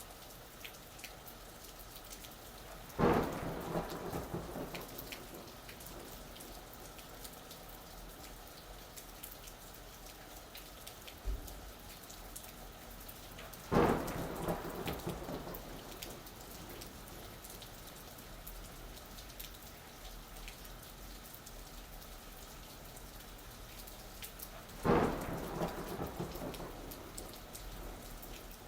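Steady rain falling, with three sudden cracks of thunder about eleven seconds apart, each rumbling away over a second or two.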